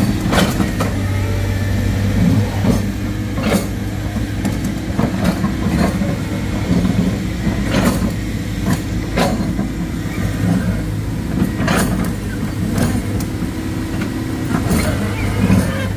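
Excavator's diesel engine running steadily under load, with sharp knocks and clanks coming irregularly about once a second.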